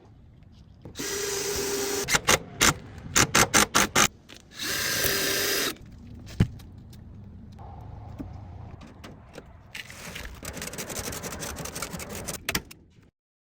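A handheld power tool runs in two short spells of about a second each, with a quick series of sharp clicks and knocks between them, then lighter handling noise.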